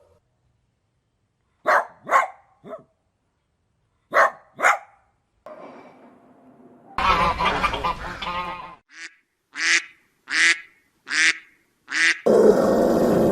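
Short bird calls, heard as two small groups and then a run of five evenly spaced calls, with a noisy stretch in the middle and a louder noisy sound starting near the end.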